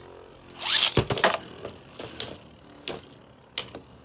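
Beyblade launch and battle: a brief ripping whirr of the launcher about half a second in, then spinning tops clacking against each other in a plastic stadium, with a loud cluster of hits around a second in and single sharp knocks spaced about half a second to a second apart.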